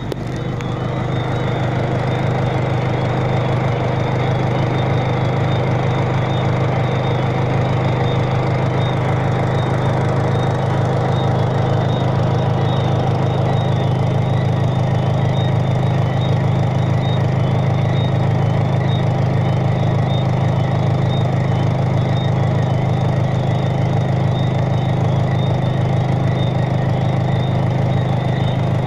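Rain hissing steadily, over a constant low mechanical hum like a motor running; the sound swells over the first second or two, then holds steady.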